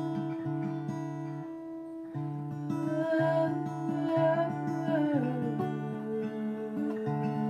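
Acoustic guitar strummed in a slow, repeating chord pattern, its notes ringing on between strums.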